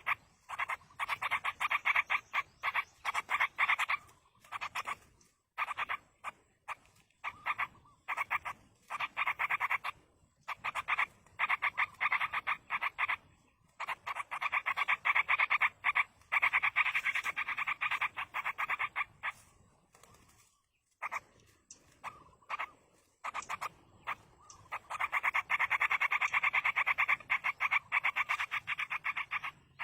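Yellow-vented bulbul nestlings begging: rapid, rasping chatter in bouts of a few seconds, broken by short pauses.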